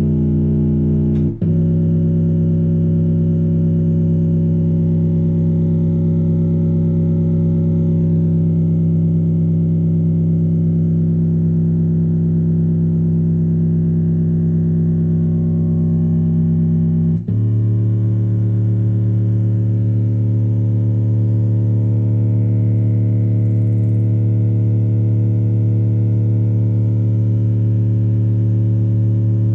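Long, steady synthesizer bass notes played through Bluetooth speakers. The held note changes about a second in and again just past halfway, and the last note is lower.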